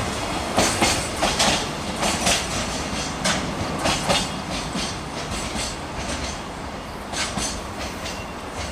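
Train passing on the rails, its wheels clacking irregularly over the rail joints over a steady rumble, the sound slowly fading as it moves away.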